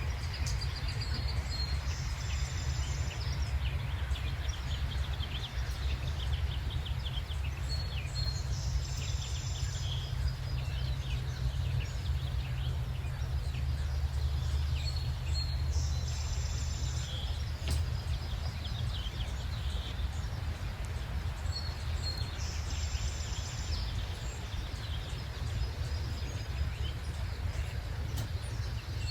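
Birds singing: one bird repeats the same short, high song about every six to seven seconds, with scattered chirps from others, over a steady low rumble.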